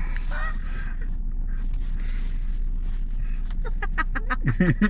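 A woman giggling in a quick run of high, squealing bursts that starts a little before the end, over a steady low hum.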